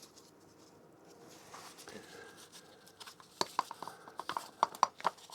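Metal parts and hand tools clinking and tapping in sharp, irregular clicks, starting about three seconds in, as the front sprocket area of a motorcycle is worked on.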